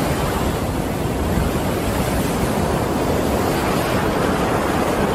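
Ocean waves on the sea: a steady, loud rush of surf.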